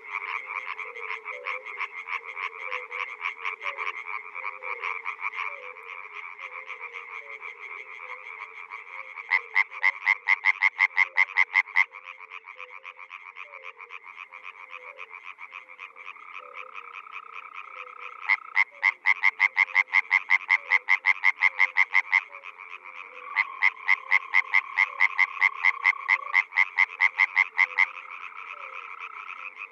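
Chorus of frogs calling, a dense steady trill of pulsed croaks with lower chirping notes beneath. Three times a louder frog breaks in with a run of rapid croaks, about five a second, each run lasting a few seconds.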